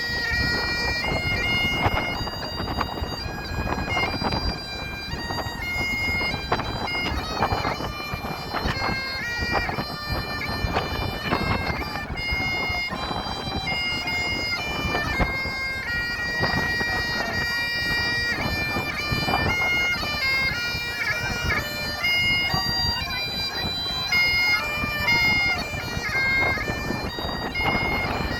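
Bagpipes playing a continuous melody of quick, stepped notes, with wind rumbling on the microphone.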